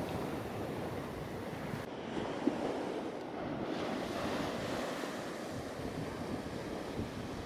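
Ocean surf washing on the beach, with wind buffeting the microphone. A single short click about two and a half seconds in.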